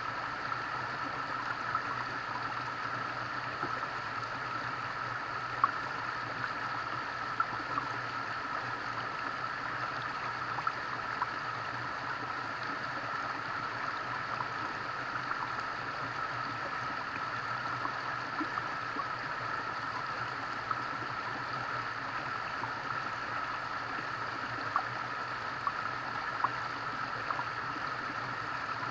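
Steady rushing and gurgling of a small flowing stream, with scattered brief ticks.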